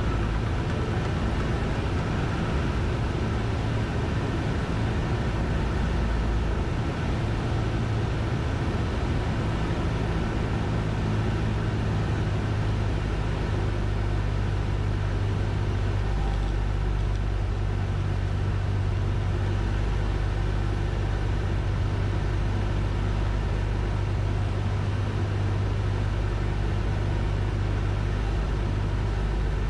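Cessna 172N's four-cylinder piston engine and propeller droning steadily, heard inside the cockpit.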